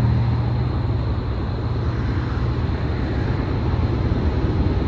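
Car driving, heard from inside the cabin: a steady rumble of road and engine noise, with a low hum that fades about four seconds in.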